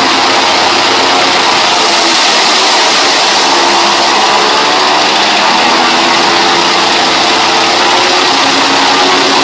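An-2's ASh-62IR nine-cylinder radial engine running loud and steady on a ground run-up, a test run after long standing unused.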